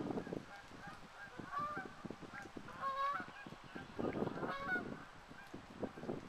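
Birds calling: a string of short pitched calls through the middle, the strongest about three seconds in. Wind gusts buffet the microphone around four seconds in.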